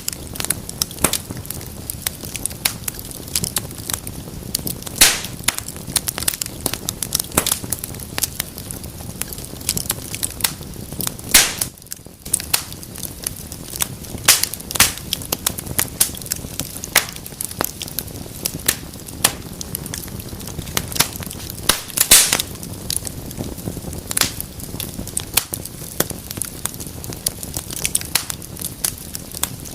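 Wood fire burning in a fireplace, crackling steadily with frequent sharp pops over a low, steady rush of flame. A few louder pops stand out, about five seconds in, near the middle and about two-thirds through.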